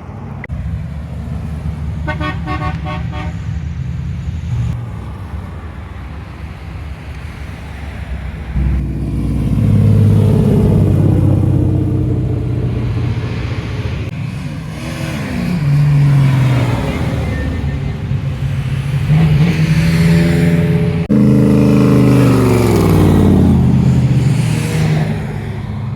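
Car engine idling with a short horn toot about two seconds in, then the engine is revved several times, its pitch rising and falling with each rev, the loudest revs near the end.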